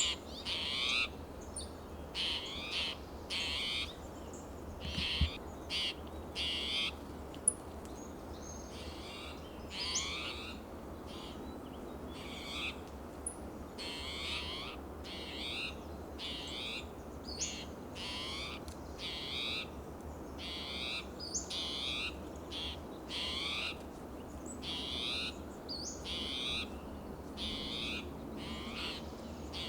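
Spotted towhee giving its agitated alarm call over and over, short calls repeated roughly once a second.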